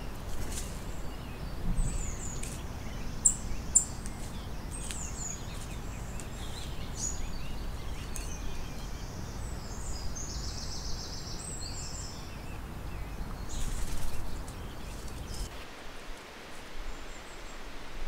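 Woodland birds chirping and calling over a steady low rush, with two sharp high chirps a few seconds in and a rapid rattling call around the middle. Near the end the low rush drops away to a thinner hiss.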